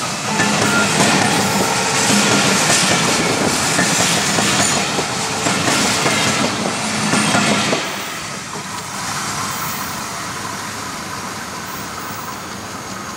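Bangladesh Railway passenger train passing close by at speed, its coach wheels clattering on the rails. About two thirds of the way through the noise drops suddenly as the last coach goes by, then fades as the train moves away.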